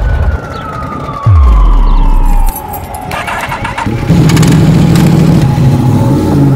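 A slow falling tone and a deep booming bass drop, then a brief burst of clicking, and from about four seconds in a motorcycle engine running, its pitch dipping near the end.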